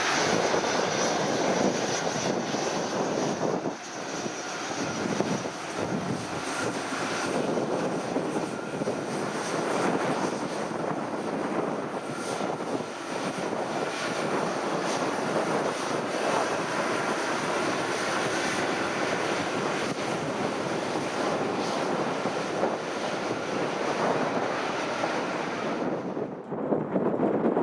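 Jet airliner engines running, a steady spread of engine noise with a faint high whine. The high end drops away suddenly near the end.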